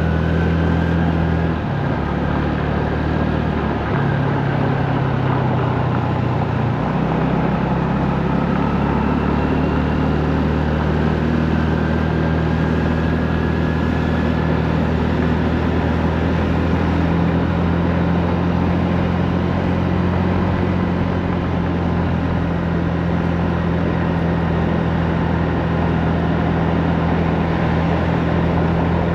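Honda Navi's small single-cylinder engine running while riding: a steady low hum whose pitch shifts in steps a few times in the first several seconds, then holds, over a continuous rush of road noise.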